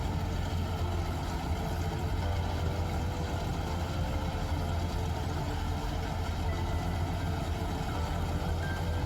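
Diesel engine of heavy farm machinery (combine harvester or tractor) running steadily at a constant speed: a deep, even hum with no revving.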